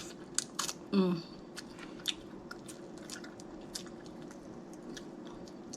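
Close-miked eating of snow crab legs: scattered sharp clicks of crab shell cracking and wet chewing and mouth sounds. A brief vocal sound comes about a second in.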